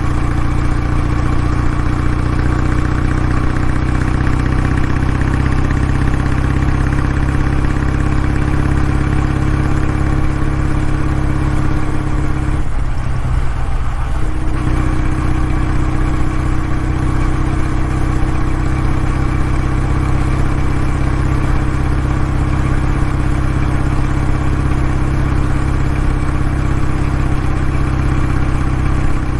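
Kawasaki W650's air-cooled parallel-twin engine idling steadily through its exhaust, with a brief change in tone about 13 seconds in.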